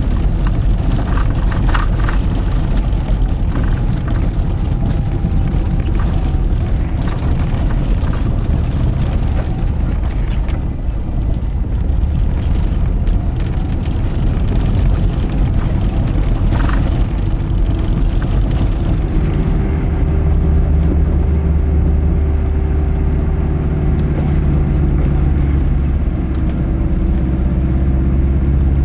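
Subaru Leone's flat-four boxer engine running with its burbling rumble as the car drives on a snowy road, with a few short clicks in the first half. About two thirds of the way in, the engine settles into a steady drone at constant speed.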